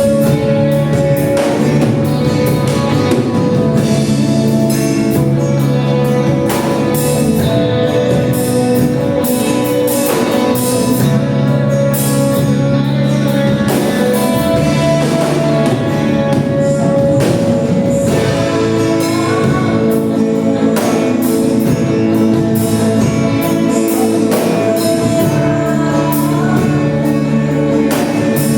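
Gospel worship song played by a band, with singing over sustained held chords and a steady drum beat.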